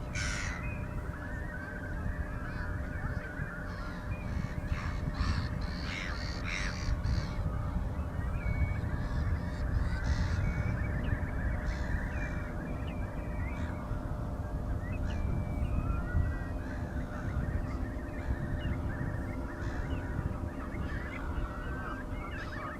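Many birds calling and cawing in short repeated calls, busiest between about four and seven seconds in, over a steady low rumble.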